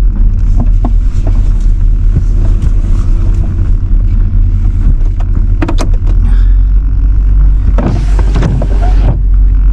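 Truck rumbling from inside the cab as it pulls slowly into a parking spot, with a few sharp knocks and a louder rush of noise about eight seconds in.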